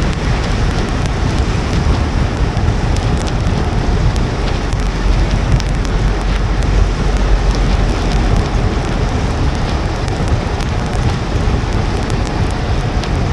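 A car driving on a wet road in the rain: a steady low rumble of road and tyre noise with the hiss of rain and spray over it, and scattered faint ticks.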